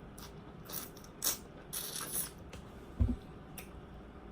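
Close-up eating sounds: a run of short, crisp clicks and crackles, with one low thump about three seconds in.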